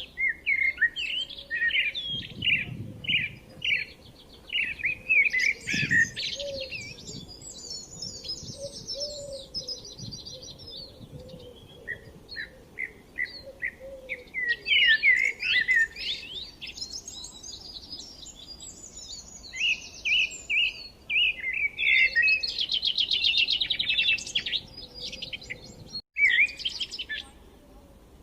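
Songbirds chirping and singing in quick, varied chirps and trills, almost without pause, with a brief break near the end.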